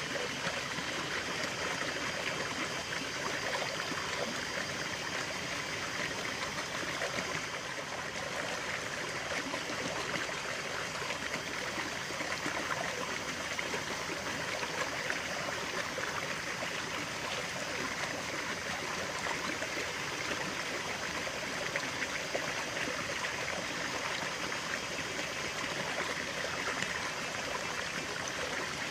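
Steady flowing stream water, a continuous even rush with fine trickling and no change.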